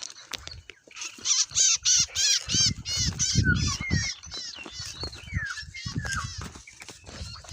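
A bird calling in a fast run of high, arching notes, about four a second, that breaks into irregular calls; low rumbling noise comes in underneath in places.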